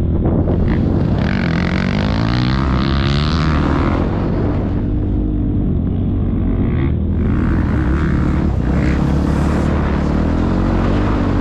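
KTM motocross bike engine running hard on a track, its pitch rising and falling as the rider works the throttle, with patches of rushing noise over it.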